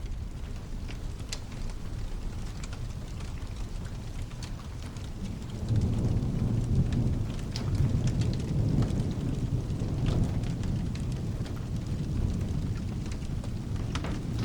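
Steady rain with a deep, rolling thunder rumble that swells about six seconds in and slowly fades, and a fire crackling with scattered sharp pops over it.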